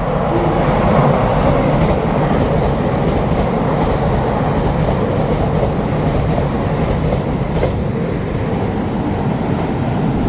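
A train passing through a station without stopping: a loud, steady rush of wheels on rail, with a few faint clicks of wheels over rail joints.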